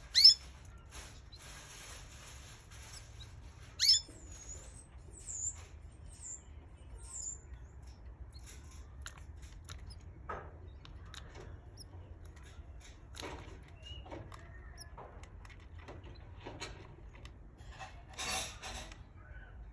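Canaries calling: two loud, sharp chirps about four seconds apart, then a few quick high whistled chirps. After that, only faint scattered clicks and rustling, with a brief louder rustle near the end.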